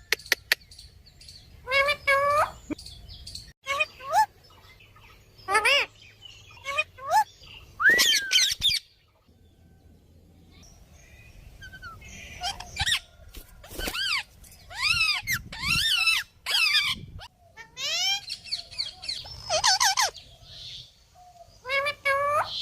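A green parrot calling with a string of short, shrill squawks that bend sharply in pitch. The calls pause for a couple of seconds midway, then come thick and fast.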